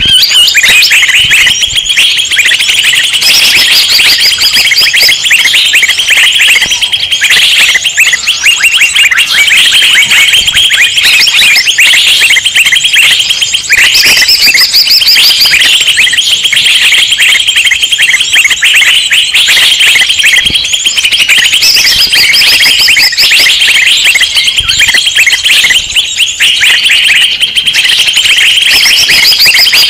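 Dense, unbroken chorus of many small songbirds chattering rapid, agitated chirps, from a bird-lure (pikat) recording of noisy birds meant to draw wild birds in. Higher, sharper calls rise above the chatter now and then.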